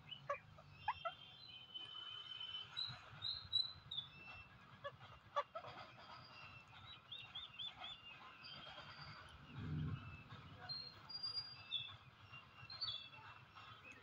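Birds chirping outdoors: many short, high chirps and whistles, including a quick run of four repeated notes, with a few soft clicks and a brief low rumble just before ten seconds in.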